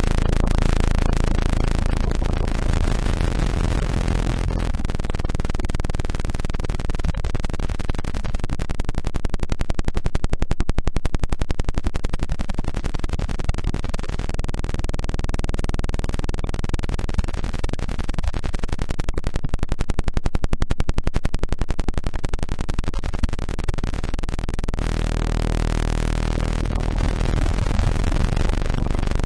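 Electronically generated frequency-generator sound: a dense, rapidly pulsing buzz over a steady hiss. Low steady tones sit underneath for the first few seconds, drop out, and return near the end.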